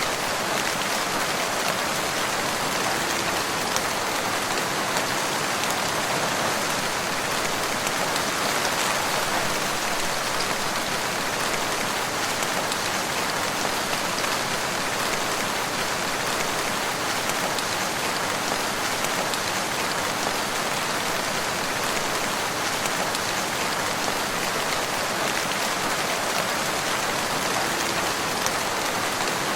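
Steady rain falling in a forest, an even hiss of many drops with no breaks or changes.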